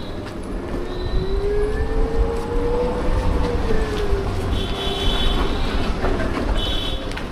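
Bajaj Chetak electric scooter on the move: a motor whine rises in pitch and then falls back, over heavy wind rumble on the microphone. Two short high-pitched beeps come near the end.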